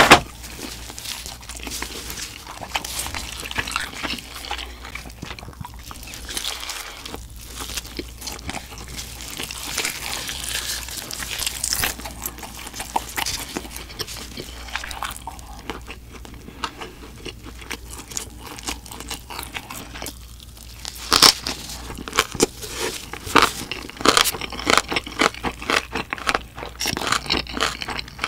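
Close-miked chewing and biting of roasted pork knuckle: wet, clicking mouth sounds with a sharp loud click right at the start and busier, louder chewing from about two-thirds of the way in.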